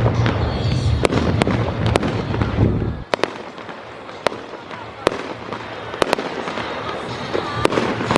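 Fireworks going off: a series of sharp pops and cracks over a heavy low rumble, which drops away suddenly about three seconds in, leaving scattered pops.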